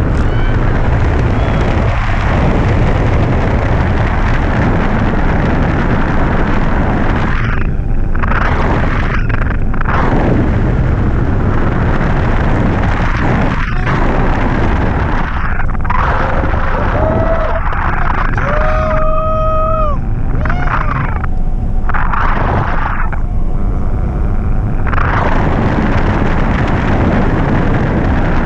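Wind rushing hard over the microphone in flight on a hang glider: a loud, steady, rumbling buffet that eases briefly several times. A few short pitched tones sound near the middle.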